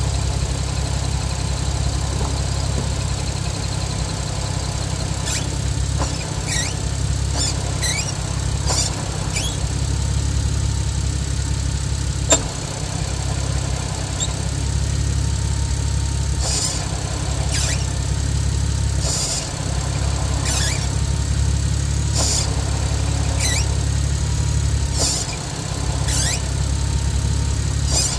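Nissan Skyline R33 GTS25t's turbocharged straight-six idling with its manual clutch being worked. Short high squeals, several falling in pitch, come again and again as the pedal is pressed and let up; this is the clutch's abnormal 'kyuiii' squeal. The engine's low note dips briefly a few times.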